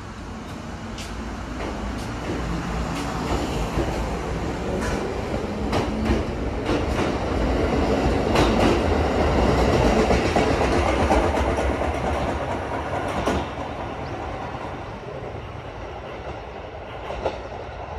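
Chichibu Railway electric train pulling out of the station and running past, its wheels clacking over rail joints. It builds to its loudest about halfway through, then fades as it leaves.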